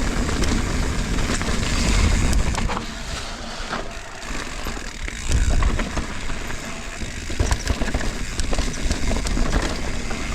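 Mountain bike ridden over a rocky trail: wind rushing over the microphone, with tyre noise and frequent sharp rattles and knocks as the bike goes over rocks and roots. It eases off a little about three seconds in, then picks up again.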